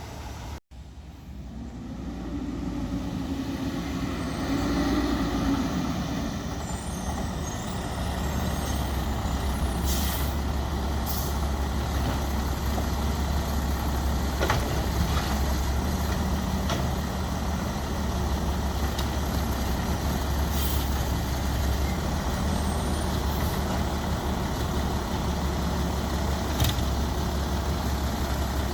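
Diesel engine of a Peterbilt 320 side loader garbage truck running steadily. Its note rises over the first few seconds, and short air hisses, typical of air brakes, come a few times.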